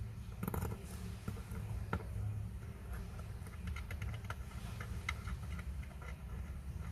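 Small, light clicks and taps of metal watchmaking tools handling the parts of a Seiko 6119 automatic watch movement, scattered irregularly over a steady low hum.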